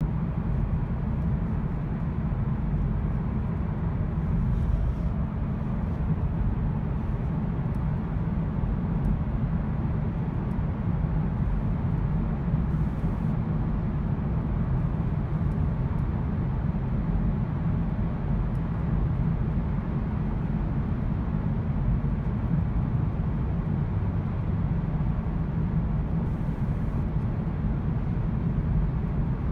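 Volkswagen car driving with its engine misfiring: a steady low rumble of engine and road noise.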